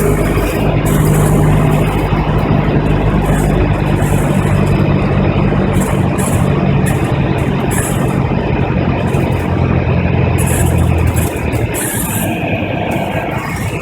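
Cessna 172's four-cylinder Lycoming engine and propeller running steadily on landing approach, under a rush of air noise. About eleven seconds in, the engine's low note fades and the overall level drops.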